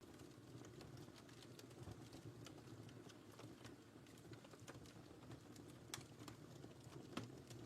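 Faint wood fire crackling: scattered small pops and snaps over a soft steady rumble, with a couple of sharper pops in the second half.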